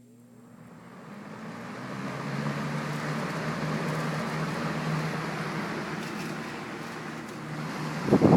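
A late-1978 Lakewood S-223 20-inch box fan starting up: motor hum with a whoosh of air that rises over the first two or three seconds as the blades come up to speed, then runs steadily. Near the end the rush of air suddenly gets much louder.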